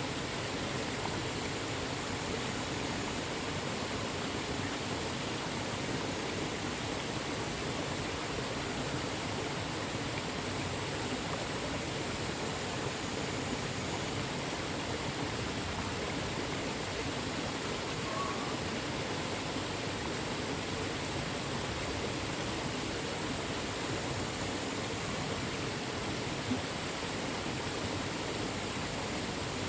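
Mountain stream water rushing steadily over rocks: a constant, even rush with no change.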